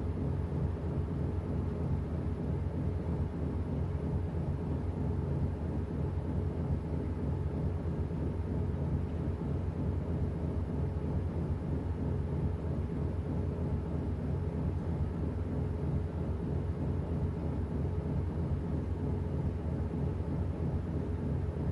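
Washing machine running: a steady low hum and rumble from its motor and drum, unchanging throughout.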